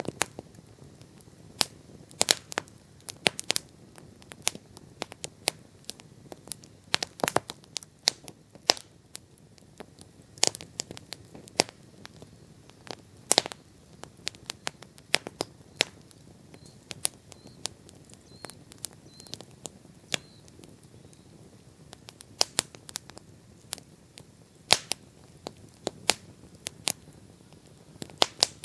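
Bonfire crackling: irregular sharp pops and snaps, several a second and some much louder than others, over a low hiss from the burning fire.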